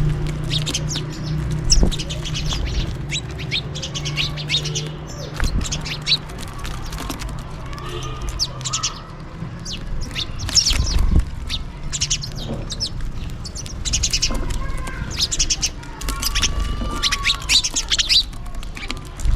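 A flock of house sparrows chirping, many short sharp chirps coming in quick clusters. A low steady hum runs under the first half, and a few dull knocks come in between.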